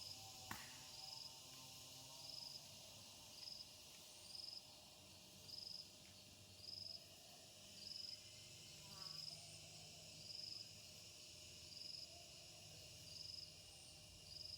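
Insect chirping, one short high note about once a second, over a steady high hiss of other insects. A single sharp click comes about half a second in.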